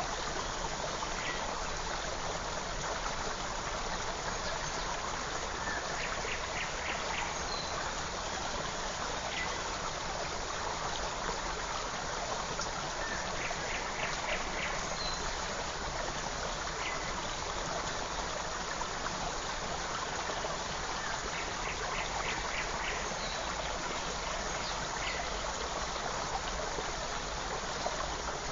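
Forest stream babbling and trickling steadily. Over it, faint quick chirps come in small groups about every seven to eight seconds.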